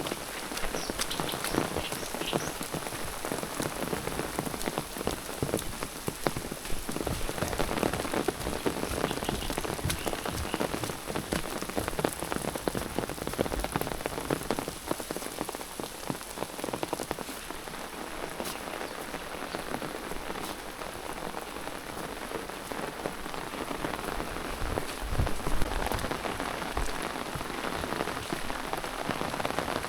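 Steady rain falling, with many small drop impacts. There is one louder knock near the end.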